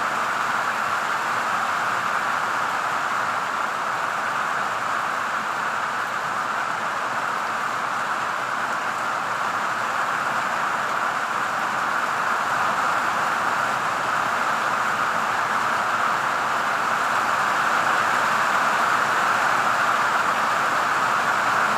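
Steady rain falling: a continuous, even hiss that swells slightly over the last few seconds.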